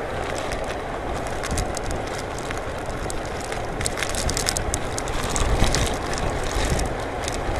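Typhoon wind rushing and buffeting against a phone's microphone, with scattered crackles of rain striking it; the wind surges a little about two-thirds of the way through.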